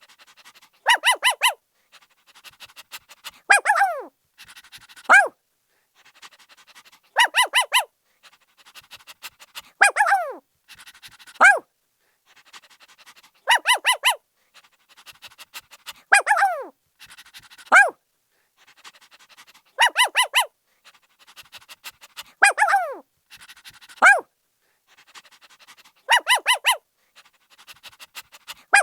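Puppy barking: a quick run of three or four high-pitched yaps, then single yelps that fall in pitch, with the same sequence repeating about every six seconds.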